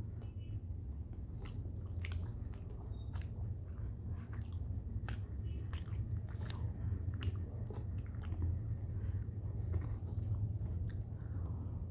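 A person chewing and biting food close to the microphone, most likely rice and chicken, with irregular soft clicks and smacks of the mouth. A steady low hum runs underneath.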